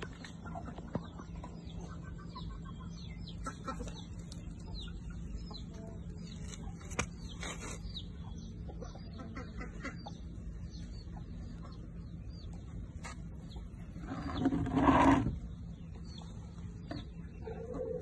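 Birds chirping in quick, high, repeated notes over a steady low hum, with one louder, longer call about fourteen seconds in.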